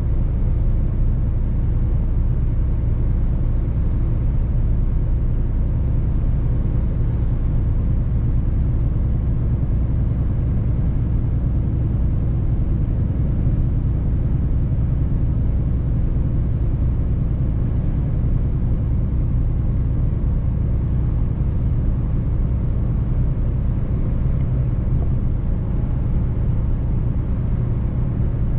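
Mercedes-Benz truck driving along, its engine droning at a steady pitch under a constant road rumble.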